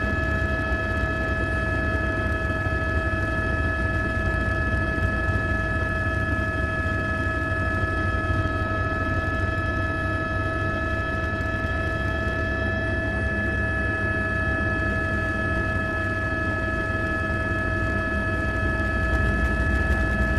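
Quadcopter drone's propellers and motors whining at a steady, unchanging pitch while it hovers, over a low rumble.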